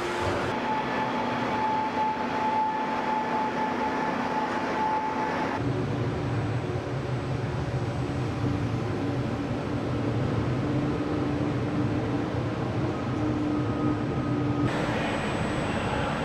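Steady hum and whir of car-factory press-shop machinery, with a few held tones. The sound changes abruptly about half a second in, near six seconds (a stronger low hum comes in) and again near fifteen seconds.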